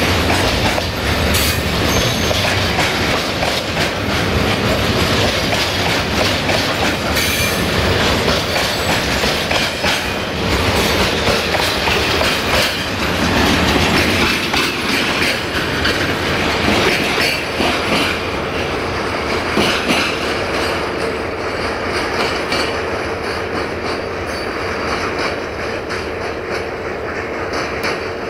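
Freight train wagons rolling past close by, their wheels clacking over the rail joints under a continuous rumble, with a thin steady wheel squeal. The sound grows duller and a little quieter in the last third as the train draws away.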